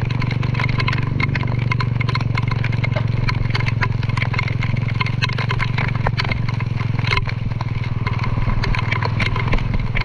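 A small engine running steadily at a constant speed, with frequent short rattling clicks over it.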